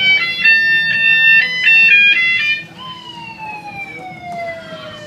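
Electronic sound effects from a Lightning McQueen toy car: a quick jingle of stepped beeping notes, then, about three seconds in, one long falling tone.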